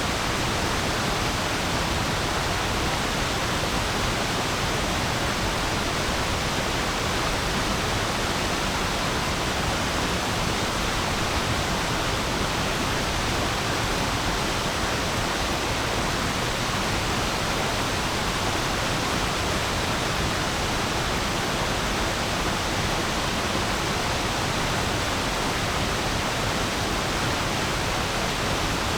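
A stream of water flowing over stones, a steady, even rushing that never breaks.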